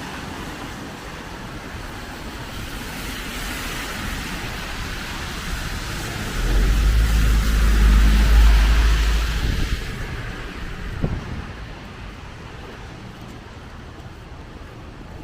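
A vehicle passing on a wet street: tyre hiss on the wet road swells to a peak about eight seconds in and fades away, with a deep rumble at its loudest. Steady rain and wind noise underneath.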